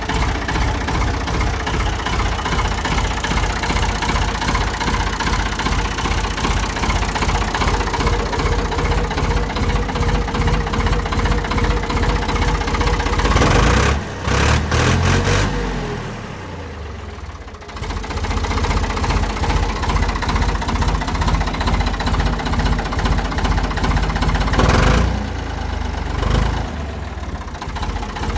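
Ford 4610 tractor's three-cylinder engine running steadily. About halfway through it drops to a lower, quieter note for a few seconds, then picks up again.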